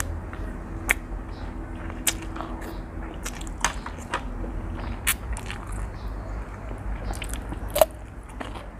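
Close-up eating of spicy seafood instant noodles: chewing, with sharp wet mouth clicks every second or so. The loudest click comes near the end, over a steady low hum.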